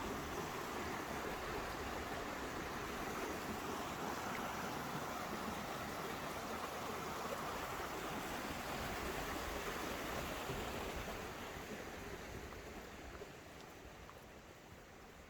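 A stream rushing steadily, fading gradually over the last few seconds.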